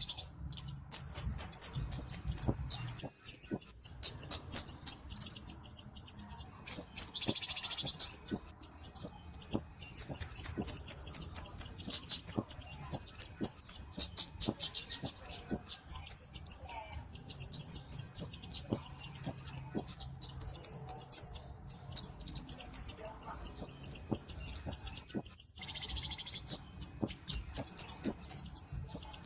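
Kemade (cabe-cabean) flowerpecker singing: long runs of rapid, very high, thin ticking notes, about ten a second, broken by short pauses.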